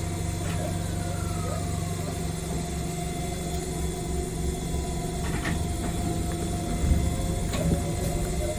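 Yoro Railway 7700 series electric train heard from the cab: a steady electrical hum over a low rumble, with a few sharp clicks, the rumble growing louder near the end.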